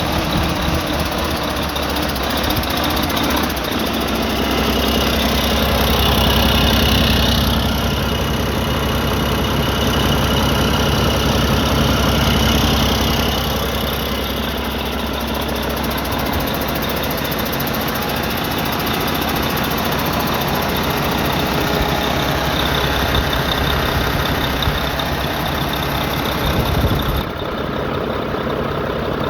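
Mack MP8 12.8-litre diesel engine running just after starting, a little louder for several seconds early on, then settling to a steady idle.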